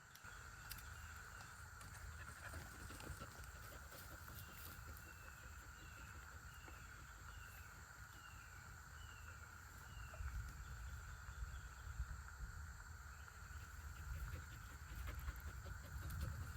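Faint riverside wildlife: a steady insect drone with a run of about eight short falling chirps in the middle, roughly one every two-thirds of a second, over a low rumble on the microphone.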